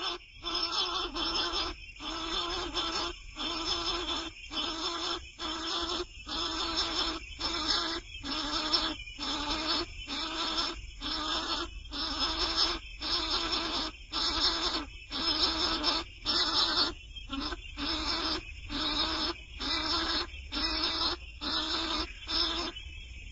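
A young bird's raspy begging calls, repeated steadily about once a second, stopping shortly before the end.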